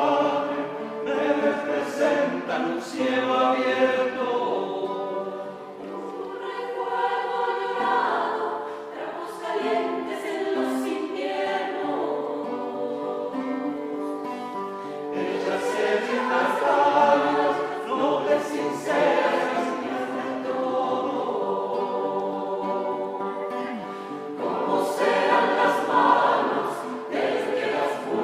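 Music: a choir singing, several voices together holding and moving between sustained notes.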